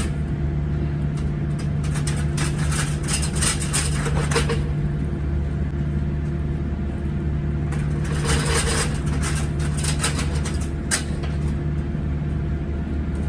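Steady mechanical hum of a parked delivery truck running, with bursts of rattling and clattering about two seconds in, again about eight seconds in, and a single knock near eleven seconds.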